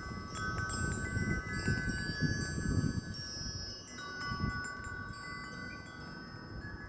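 Wind chimes ringing in strong wind, many struck notes overlapping and ringing on. Gusts of wind rumble on the microphone through the first few seconds and once more briefly, then ease.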